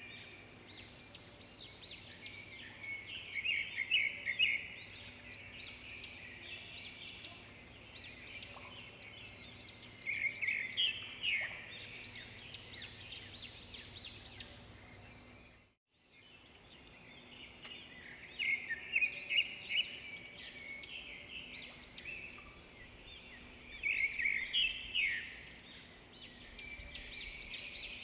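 Songbirds singing: quick chirps and trilled phrases, with louder bursts every several seconds over a faint background hiss. The sound cuts out for a moment about halfway through, then the birdsong resumes.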